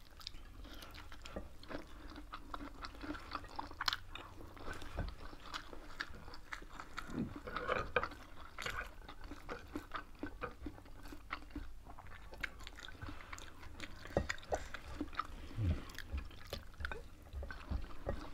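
Two people chewing food with their mouths close to the microphone: steady chewing with many short mouth clicks and small knocks throughout.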